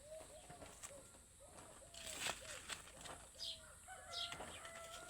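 Birds calling faintly: a quick run of short, arched, repeated calls, thin high chirps, and a longer held call starting about four seconds in.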